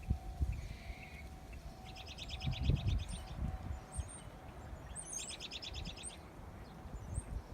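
A small bird sings two rapid trills of quick repeated high notes, each lasting about a second, with a few higher chirps. Under them, a faint steady tone of a distant tornado siren fades out about three seconds in, and wind buffets the microphone with low rumbles and thumps.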